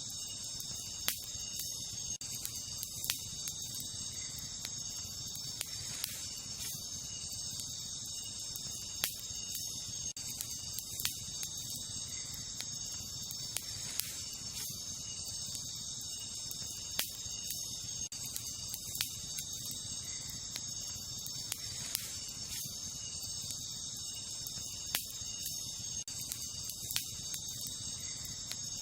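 Wood campfire crackling, with sharp pops every couple of seconds over a low steady hiss. Behind it runs a constant high-pitched chorus of crickets and other night insects.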